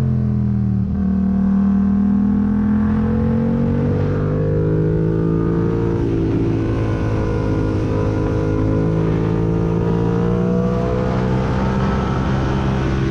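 Yamaha MT-07 parallel-twin engine through a full MIVV exhaust, decat and without dB killer, loud under riding load. Its pitch rises and falls with the throttle, with sudden shifts a little under a second in and about six seconds in, as at gear changes.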